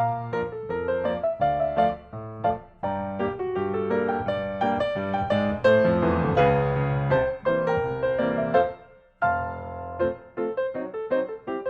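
Background music played on piano: a run of struck notes that fade, with a brief pause about nine seconds in.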